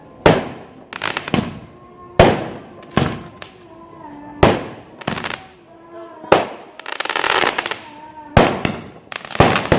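Fireworks going off: a quick series of sharp bangs, about one or two a second, with a longer crackling burst about seven seconds in, over faint background voices.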